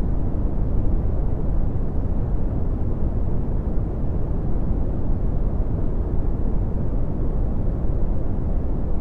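Red (Brownian) noise: a steady, even rush weighted heavily toward the low end and falling away above about 1 kHz.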